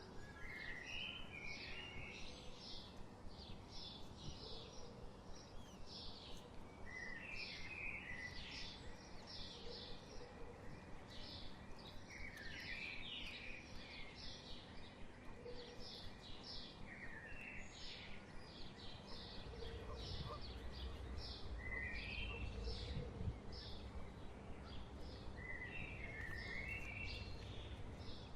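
Birds calling: a steady run of short high chirps, several a second, broken every few seconds by a brief lower warbling phrase. A low rumble grows louder in the second half.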